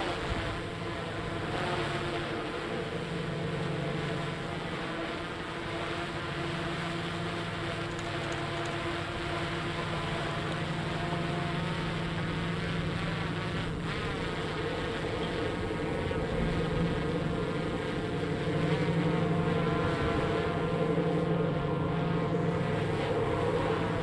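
Tugboat's diesel engines running steadily as it pushes a barge, a low drone that swells slightly louder in the last few seconds.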